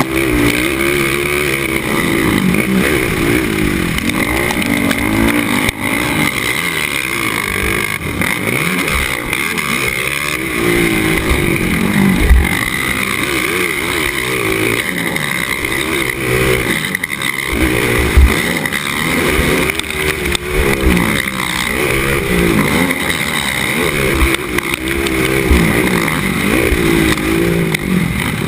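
Racing ATV engine revving up and down again and again, its pitch climbing and falling over and over, with a few sharp thumps.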